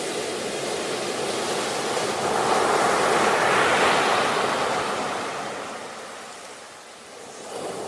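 Ocean waves: one wave swells to its loudest a few seconds in, then washes back and fades, and the next begins to build near the end.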